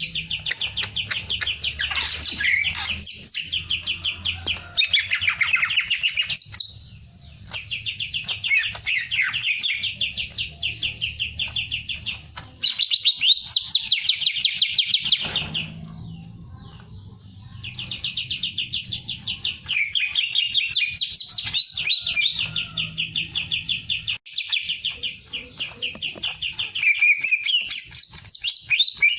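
A songbird singing long phrases of rapid, evenly repeated trilling notes, each phrase a few seconds long with short pauses between them.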